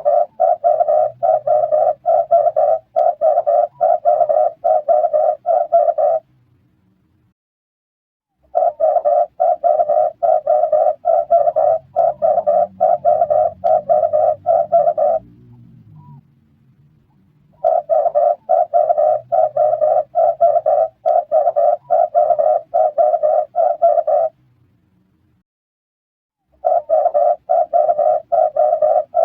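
Red turtle dove calling: long runs of rapid, rough coos, each run lasting about six seconds and repeated after short pauses, three times and starting a fourth near the end.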